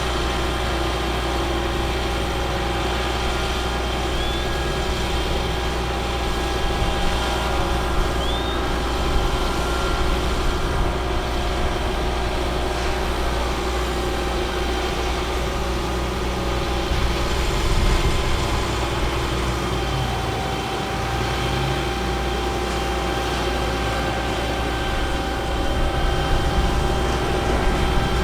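Caterpillar C7 diesel engine of a Ford F750 bucket truck running steadily at idle, with the level swelling briefly a few times.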